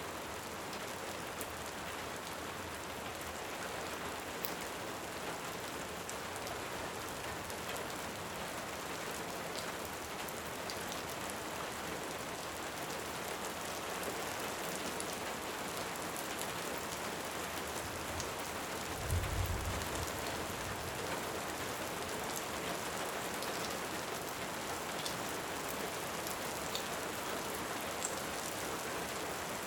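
Steady rain falling, with scattered small crackles from a wood fire and a brief low rumble of distant thunder about two-thirds of the way through.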